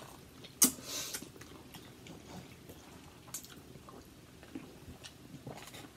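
Quiet chewing and eating of pasta at close range, with a sharp click about half a second in and a few small clicks later.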